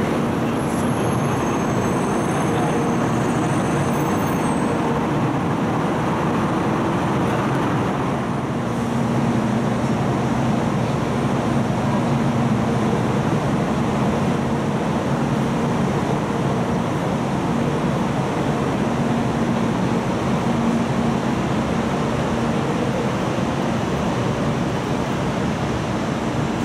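Taiwan High Speed Rail 700T trainset pulling out of an underground station platform: a steady rumble and hum of the moving train, echoing in the underground hall. A few faint high whining tones sound in the first few seconds.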